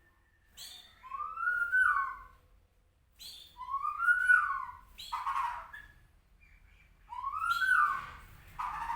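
White-rumped shama of the Medan type singing: three repeated phrases, each a short high note followed by a loud whistle that rises and then falls, with a harsh rasping note after the second and third.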